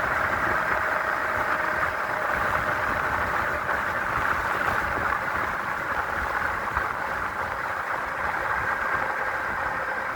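Wind rushing over the microphone, with steady road noise from a 5,000-watt dual-motor electric bike ridden at high speed, around 38 mph, on its rear motor alone. A faint steady tone runs underneath.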